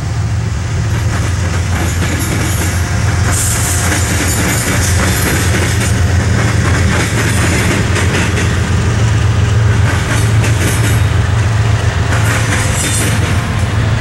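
CSX double-stack intermodal freight train passing close by. A deep, steady diesel locomotive rumble grows louder in the first second, then the container well cars roll past with wheel clatter on the rails.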